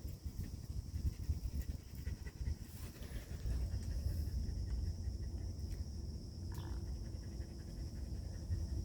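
A dog panting, under heavy wind buffeting the microphone, with a steady high insect buzz behind.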